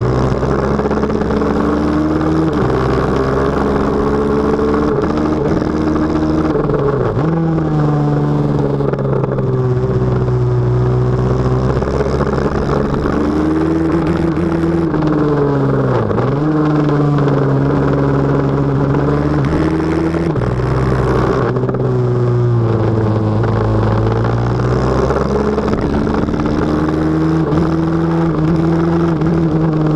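Pit bike engine running hard and loud, its pitch rising and falling as it revs up and eases off. Three times, at about 7, 16 and 22 seconds in, the revs drop sharply and climb straight back up.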